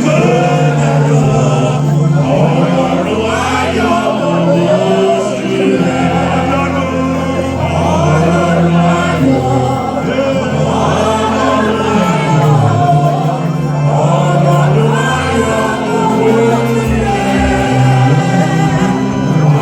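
Congregational gospel singing: a choir of voices singing a hymn over steady instrumental accompaniment with a sustained bass.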